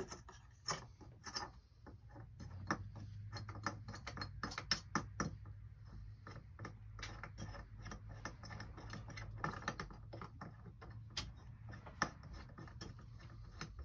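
Irregular light clicks, clinks and knocks of parts and tools being handled on an engine that is not running, over a faint steady low hum.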